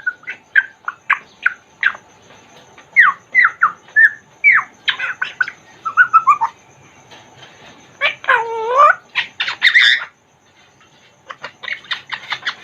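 African grey parrot calling: a rapid run of short whistles and chirps, a longer wavering call about eight seconds in, then a loud harsh squawk, a brief pause and more quick chirps near the end.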